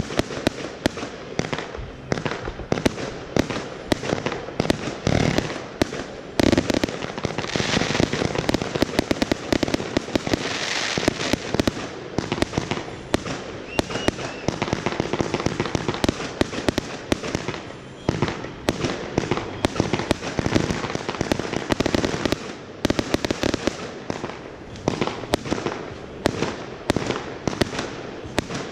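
Fireworks display: a dense, unbroken run of rapid bangs and pops.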